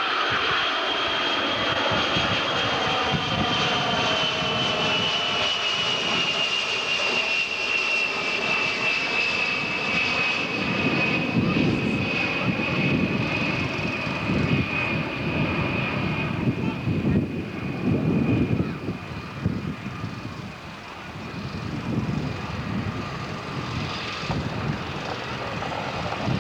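Lockheed C-141 Starlifter's four TF33 turbofan engines on a slow pass with gear and flaps down. A high whine falls slowly in pitch, and a deep rumble builds about halfway through.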